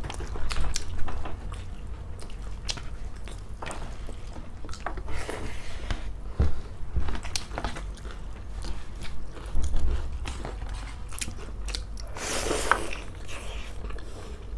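Close-miked eating sounds of two people chewing and biting mouthfuls of rice and chicken curry. Many short, sharp mouth clicks and smacks are heard, with a longer noisy stretch about twelve seconds in.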